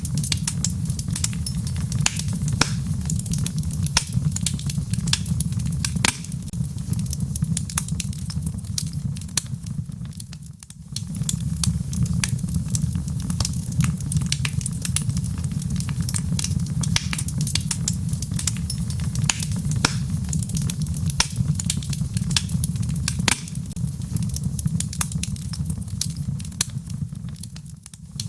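Wood fire of burning logs: a steady low rumble of flames with dense, irregular crackles and sharp pops. The sound dips briefly twice.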